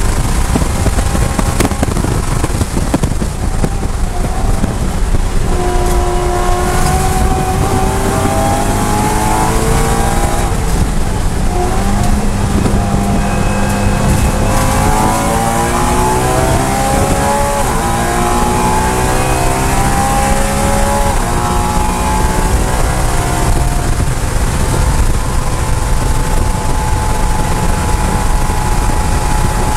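BMW E92 M3's V8, heard from inside the cabin, at high revs at full throttle, then dropping in pitch under braking with downshifts, then rising again in stepped pulls as it accelerates back up through the gears. Steady wind and road noise run underneath.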